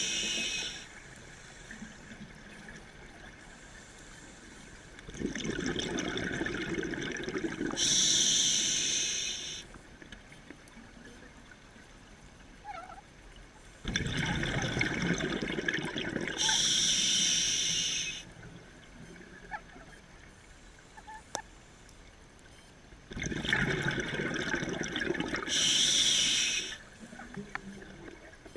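Scuba diver breathing through a regulator underwater: three breaths about nine seconds apart, each a few seconds of exhaled bubbles gurgling followed by a short hissing inhalation.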